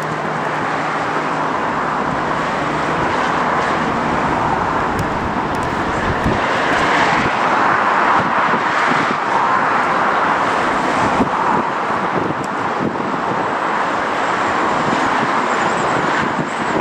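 Jet airliner engines passing on final approach: a loud steady rush that swells to a peak about halfway through and then slowly eases off.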